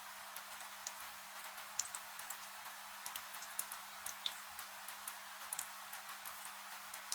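Wood fire crackling with scattered, irregular sharp pops over a steady hiss of rain.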